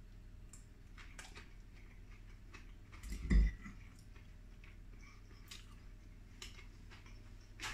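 Quiet chewing of a mouthful of battered fish, with scattered small clicks and one brief low thump about three seconds in.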